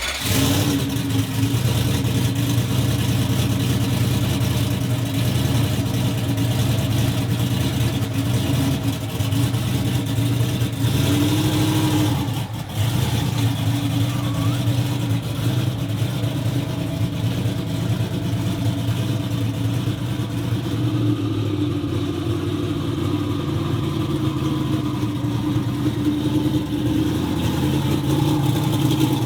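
A vehicle engine running steadily at a fairly even speed, with a brief drop about twelve seconds in.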